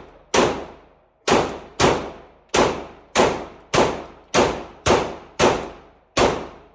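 A handgun being fired in a steady string of about eleven shots, roughly two a second, each followed by a ringing echo.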